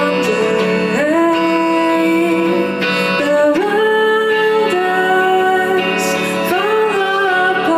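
Live band music: a singer holds long notes that scoop up into each new pitch, over the band's steady accompaniment.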